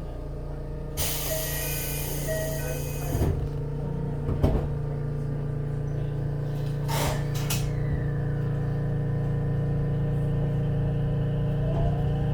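Inside an Ichibata Electric Railway train: a burst of compressed-air hiss about a second in, lasting about two seconds, then a few sharp clicks. Under it the car's machinery hums steadily. Near the end a rising whine sets in as the train starts to move.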